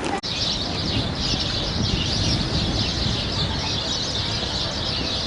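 A flock of small birds chirping together in a dense, continuous chatter over a low background rumble.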